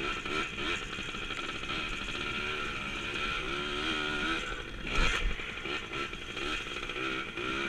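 Small single-cylinder Yamaha dirt bike engine of about 100 cc running under the rider, its pitch rising and falling as the throttle is worked over rough ground. There is one loud jolt about five seconds in.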